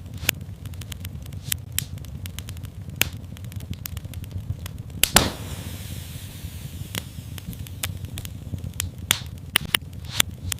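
Wood fire in a fireplace crackling: scattered sharp pops and snaps over a low steady rumble, with one louder pop about five seconds in followed by a brief hiss.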